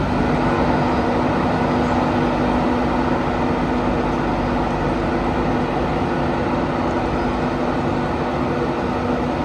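Train running close by at a station platform: a steady, loud rumble with a couple of held humming tones.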